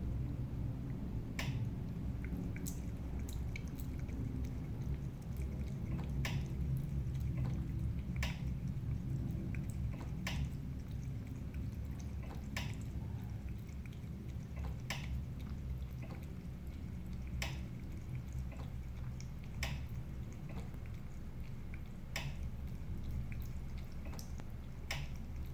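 Sharp ticks recurring about every two to two and a half seconds, with fainter ticks between them, over a low steady hum: the ticking noise that keeps being heard.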